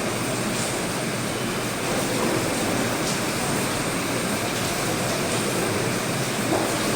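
Steady hiss of rain mixed with the engines of a Beechcraft King Air C90GT twin turboprop as it comes in to land.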